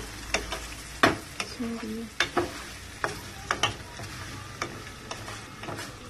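Thin vermicelli frying in oil and melting margarine in a pot, sizzling steadily, while a wooden spoon stirs it. The spoon knocks and scrapes against the pot in irregular sharp clicks, the loudest about a second in.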